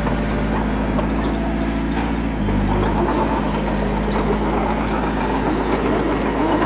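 Diesel engine of heavy earthmoving equipment running steadily. Its note changes and grows a little louder about two and a half seconds in, with scattered light clinks over it.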